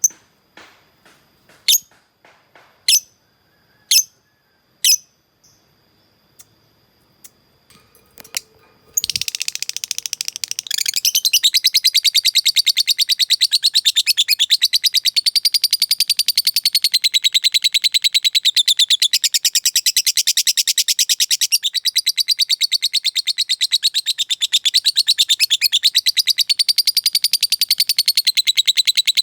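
Lovebird singing its 'ngekek' song: a few sharp single chirps, then from about nine seconds in a long, fast, unbroken chattering trill.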